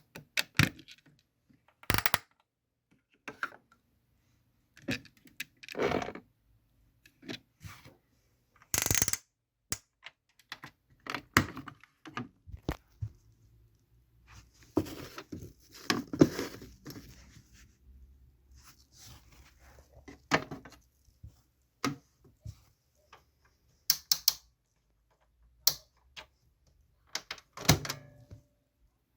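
Irregular plastic clicks, knocks and thunks from toy washing machines being handled, with a busier clattering stretch about halfway through.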